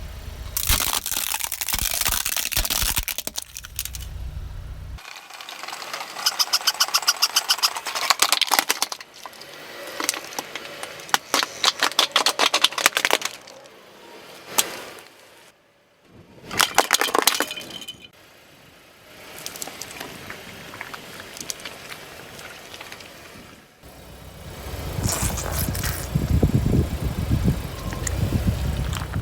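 A car tyre rolling over and crushing objects in a series of short clips: cracking, crunching and snapping with runs of rapid crackles, the sound changing abruptly between clips.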